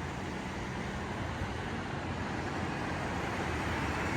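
Steady city street traffic noise, slowly growing louder.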